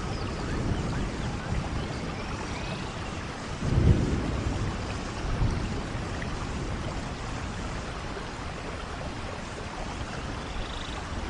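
Thunderstorm: steady rain hiss with a low rumble of thunder swelling about four seconds in, and a smaller one soon after.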